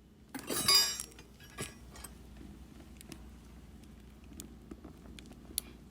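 Small hard objects being handled. There is a brief ringing, jangling clatter about half a second in, then light scattered clicks and taps.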